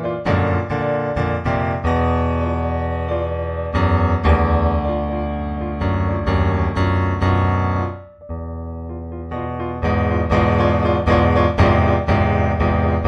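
Background piano music: a solo piano with struck notes and held chords, pausing briefly about eight seconds in before it resumes.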